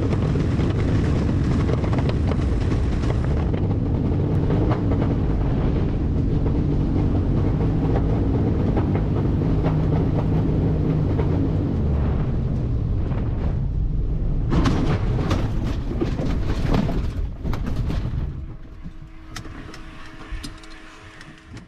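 Aircraft making an emergency landing on farmland: a steady heavy rumble with rattling, a burst of clatter and knocks about fifteen seconds in, then dying down to a faint steady hum near the end.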